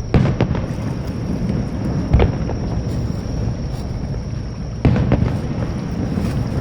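Aerial firework shells bursting in a series of booms: two right at the start, one about two seconds in, and two close together near five seconds, over a continuous low rumble.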